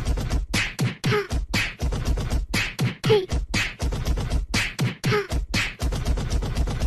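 A fast, even beat of short percussive mouth-like hits, several a second, with a short downward-sliding pitched sound coming back about once a second, in the manner of beatboxing.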